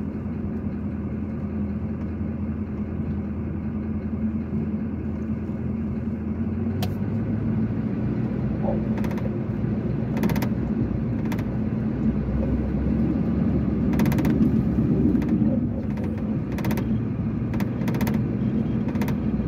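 Vehicle engine running at low speed, heard from inside the cab as a steady low rumble, with scattered sharp clicks and pops while it creeps along a gravel drive.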